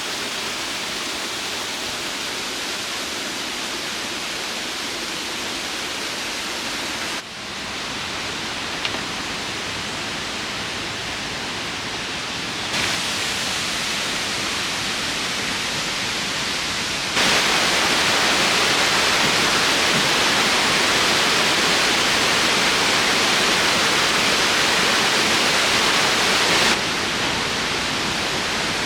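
Waterfall rushing, a steady roar of falling water that changes loudness abruptly several times and is loudest for about ten seconds after the middle.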